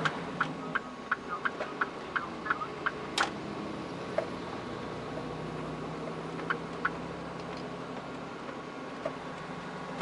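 Mitsubishi Fuso Super Great truck's 6R20 diesel engine running steadily, heard from inside the cab. Sharp, irregular clicks and ticks sound over it through the first three seconds, the loudest about three seconds in, with two more clicks later.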